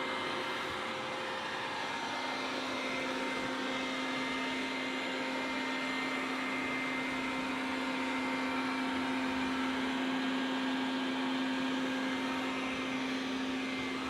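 Dreame robot vacuum running a cleaning cycle: a steady motor and suction noise with a constant low hum and a faint high whine.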